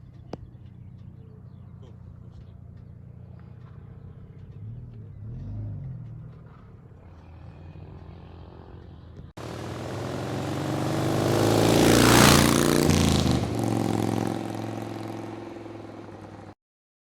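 A low steady engine hum. Then a louder road vehicle drives close past, its engine and tyre noise swelling to a peak and fading away.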